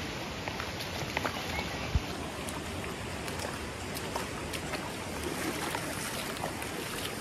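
Steady rushing of flowing water from a creek or falls, with faint scattered clicks and one brief low thump about two seconds in.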